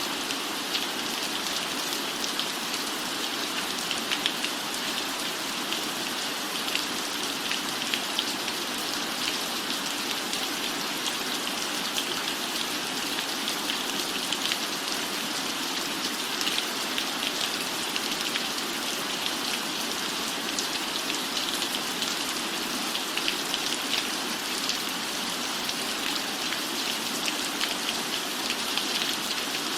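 Steady rain: an even hiss with many small, sharp drop taps scattered through it.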